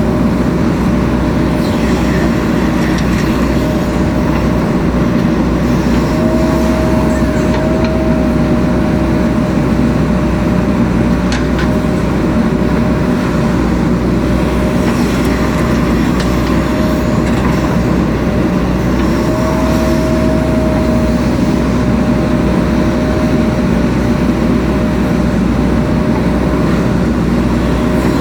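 JCB 3DX Super backhoe loader's diesel engine running steadily under working load, with a whining tone that rises slightly twice as the hydraulics are worked.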